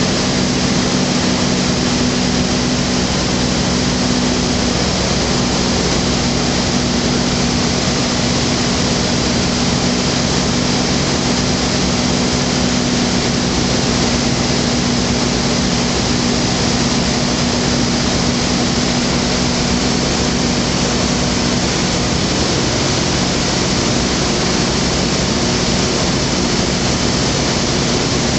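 Rotax 912 flat-four engine and propeller of a Skyranger microlight running steadily, heard from on board over a loud rush of airflow.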